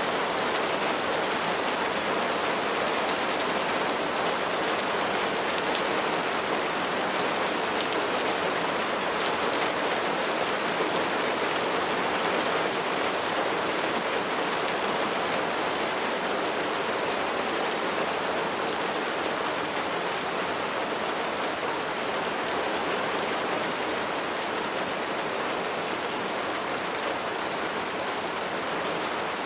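Steady rain falling and pattering on surfaces, a dense even hiss with fine drop hits.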